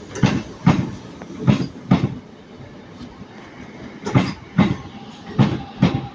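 Wheels of a Northern Class 323 electric multiple unit clattering over rail joints as it moves slowly past, in four pairs of knocks as each bogie's two axles cross a joint.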